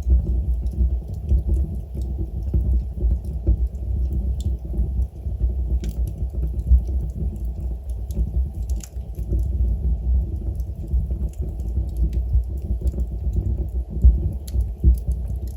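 Log fire burning in a fireplace: a steady low rumble of the flames under small, irregular crackles and pops from the burning wood, with a few sharper snaps.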